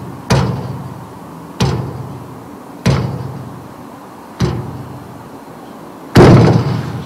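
Five heavy knocks or thuds, spaced about a second and a half apart, each ringing out for about a second; the last one, near the end, is the loudest and longest.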